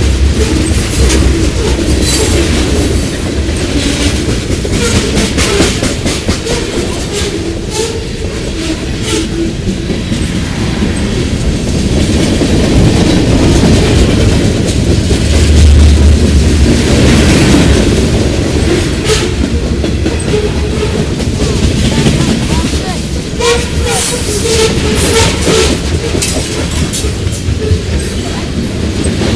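CSX freight train cars rolling past, loud and steady, with the wheels clacking over the rail joints in an uneven stream of sharp clicks over a low rumble.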